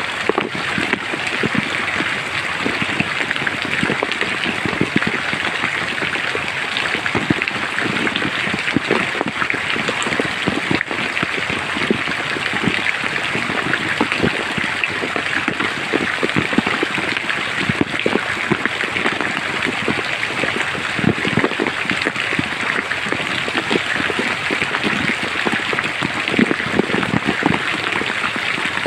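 Steady rain falling in a forest, a constant hiss of rain with many separate close drops hitting.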